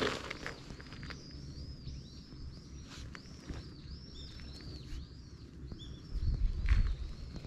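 Small birds chirping continuously, a quick run of short, high, arching notes, over low outdoor rumble that swells briefly near the end.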